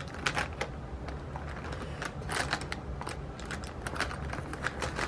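Irregular light clicks and taps of plastic marker pens being handled and sorted on a desk.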